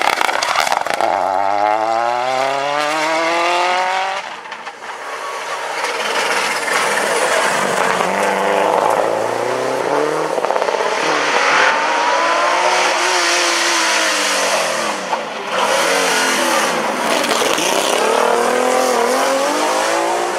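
Rally car engines at full throttle, the pitch climbing hard through the revs, then rising and falling again and again as the cars shift gear and speed past.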